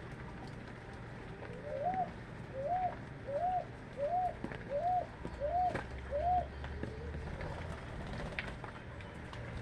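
A bird calling a quick, even series of seven short arched notes, each rising and falling, about one and a half a second.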